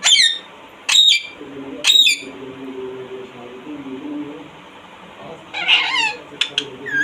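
Pet parrot screeching: three loud, sharp calls about a second apart, then a rougher, chattering burst of calls about six seconds in and another screech at the end.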